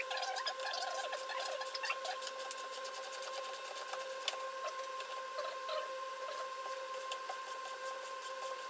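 Hand tools at work on car front-suspension parts: scattered metallic clicks and scrapes over a steady high hum.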